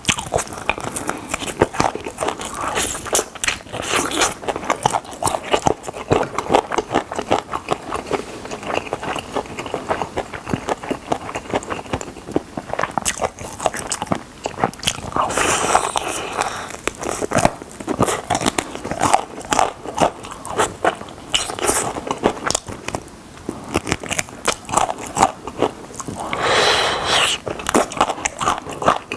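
Close-miked mukbang eating of chicken drumsticks: rapid, irregular bites and chewing with many small clicks and smacks. There are two longer, louder noisy stretches, one near the middle and one near the end.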